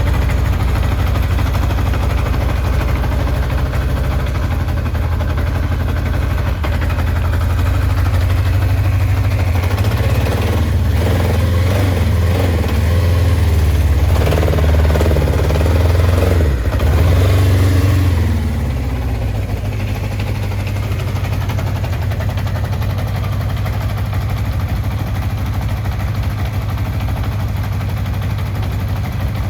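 Kawasaki Zephyr 750's air-cooled inline-four engine idling, revved up in several throttle blips from about a third of the way in until past the middle, then settling back to idle. The idle is unsteady, which the seller puts down to a slow jet still clogged in one of the carburettors.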